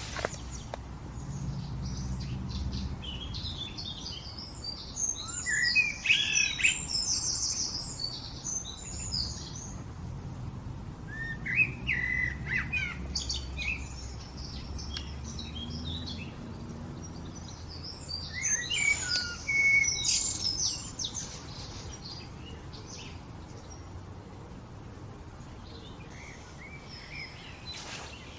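Songbird singing in three bursts of quick, warbling high notes, with pauses between phrases; a faint low rumble sits underneath in the first half.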